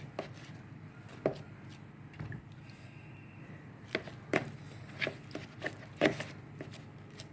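A utensil knocking against a bowl while cooked poundo yam is dished out: irregular single knocks, the loudest about a second in and several more in the second half, over a low steady hum.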